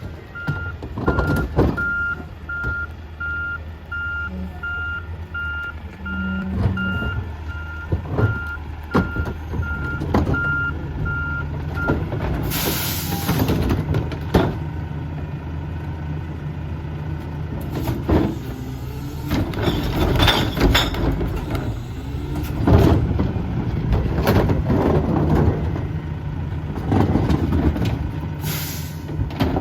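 Mack MRU garbage truck with a McNeilus rear-loader body running, its reversing alarm beeping steadily for the first twelve seconds. An air-brake hiss comes about twelve seconds in and again near the end, with scattered knocks throughout.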